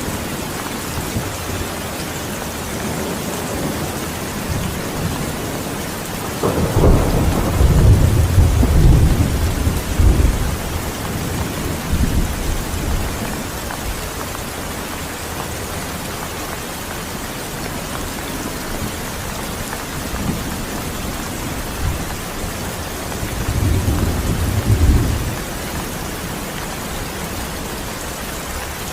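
Steady heavy rain, with thunder rumbling twice: a long roll starting about a quarter of the way in and a shorter one near the end.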